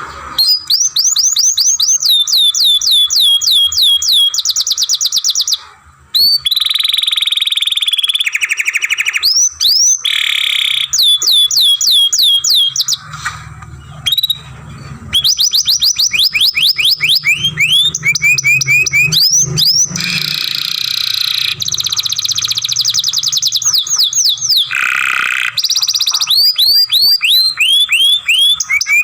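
Domestic canary singing a long, loud song made of rapid trills: runs of quick repeated down-sweeping notes that switch to a new trill every second or two, with a brief pause about six seconds in.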